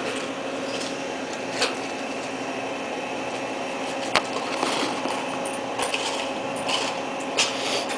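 Steady hum of a sandwich shop, broken by five short clicks and knocks.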